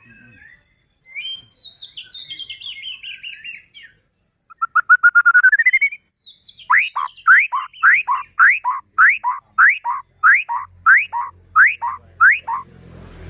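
White-rumped shama singing: varied warbled phrases, then a quick rising trill about halfway through, then a run of about eleven sharp rising whistled notes, roughly two a second, ending just before the end.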